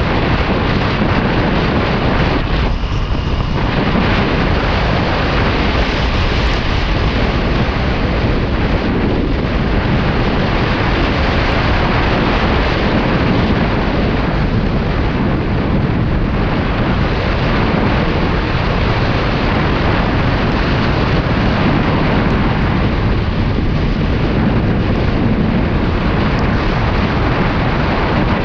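Steady wind rush on the microphone of a Kawasaki Ninja 400 riding at speed in the rain, drowning out the engine, with a brief lull about three seconds in.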